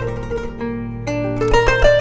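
Kanun, the Turkish plucked zither, playing a slow melody of single plucked notes that ring on, with a quick run of several notes near the end.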